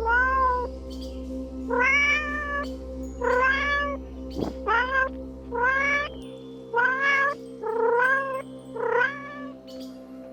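Domestic cat meowing repeatedly, about eight meows roughly a second apart, over steady background music.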